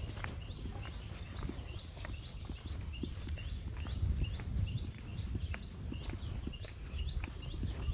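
A high chirping call repeated evenly, about two and a half times a second, with wind rumbling on the microphone and soft footsteps on a muddy path.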